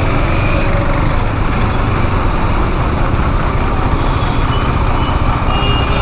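Steady rush of riding noise from a KTM Duke 390 motorcycle under way: engine and wind noise blended into an even roar, heaviest in the low end.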